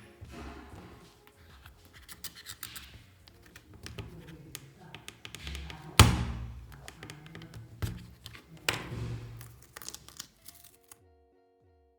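Clicks, scrapes and knocks of the plastic parts of an LCD writing tablet being handled, with one loud knock about six seconds in, over background music. The handling stops about a second before the end, leaving only the music.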